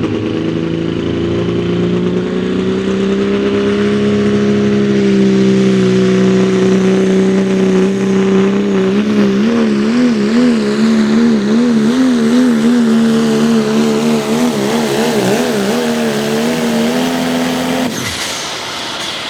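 Diesel 4x4 pulling truck at full throttle dragging a weight sled, its engine note high and steady at first. About halfway through the pitch starts wavering rapidly up and down, and near the end the engine drops off abruptly as the throttle is let off.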